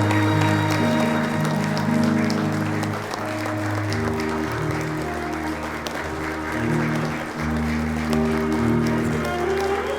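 Audience applauding over instrumental music with long held chords and a slowly changing bass line.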